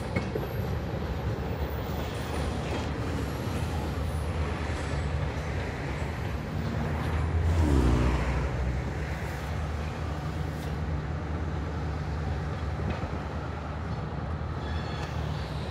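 A slow freight train of tank cars rolling away along the track, a steady low rumble. About eight seconds in it briefly swells louder, with a short falling tone.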